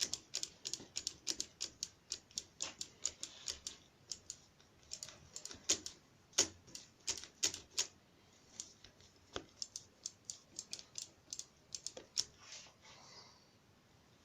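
Motorcycle master cylinder lever being pumped over and over: a run of quick, light clicks, several a second, with short pauses. The owner says the cheap master cylinder builds no pressure even with no air in the system.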